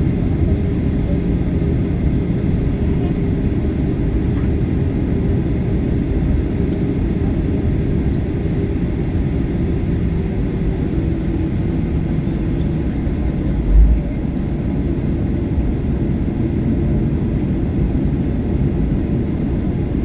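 Steady low rumble and hum inside an airliner cabin, with the jet engines running on the ground after landing. There is a single low thump about two-thirds of the way through.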